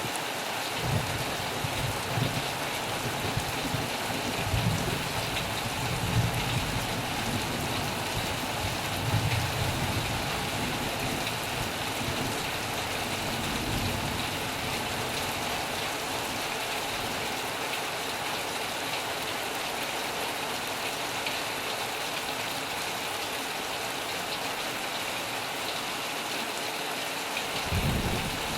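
Heavy rain falling steadily, an even hiss, with occasional short low thumps in the first half and again near the end.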